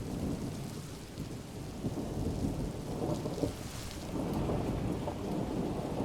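Recorded rain-and-thunderstorm ambience from an ambient-sound app: a low rolling rumble of thunder over a faint, even hiss of rain, swelling slightly partway through.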